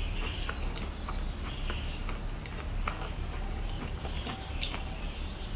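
Close-miked eating sounds: chewing and wet mouth clicks, with irregular sharp clicks over a steady low hum.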